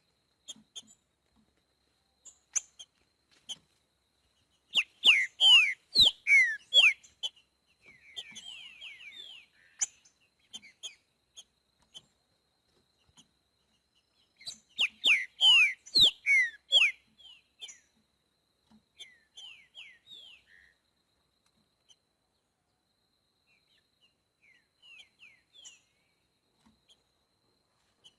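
Green-winged saltator (trinca-ferro) singing the 'boiadeiro' song type: two loud phrases of clear whistled notes that slide downward, about ten seconds apart, with softer scattered chirps between and after them.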